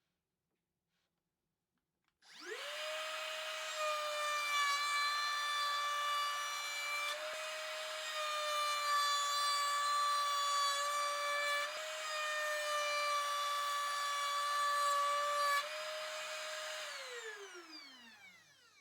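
Router in a router table spinning up with a rising whine, routing wood for several seconds with the pitch dipping slightly under load, then switched off and winding down with a falling whine near the end.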